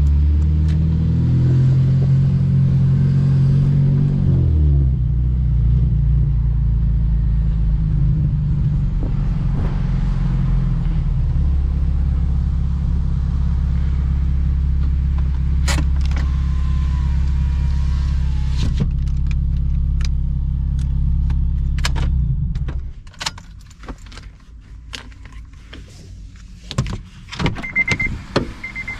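2007 Honda Civic Si's 2.0-litre four-cylinder engine dropping in revs over the first few seconds and then idling steadily, before it is switched off a little over twenty seconds in. Scattered clicks and knocks follow, then a short run of repeated beeps near the end.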